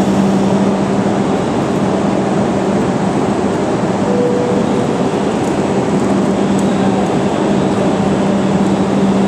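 Tohoku Shinkansen train at the platform: a steady rushing running noise with a low steady hum.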